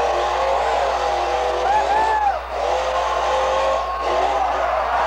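Supercharged monster truck engines running hard at full throttle, with the supercharger whine audible over the engine. Their pitch rises and falls, arching sharply up and back down about two seconds in.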